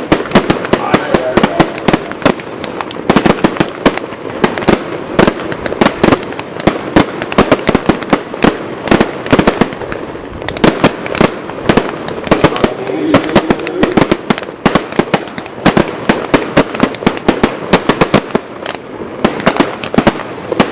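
Fireworks going off in quick succession, many sharp bangs and cracks a second without a break.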